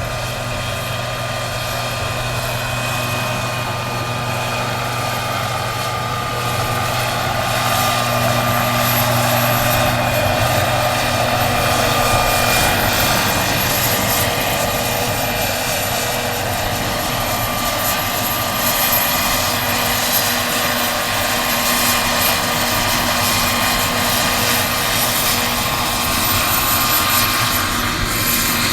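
Turbine-powered RC scale model helicopter, an Agusta AW109 K2 replica, running steadily: a high-pitched turbine whine over the rotor's rushing noise, growing somewhat louder after about six seconds.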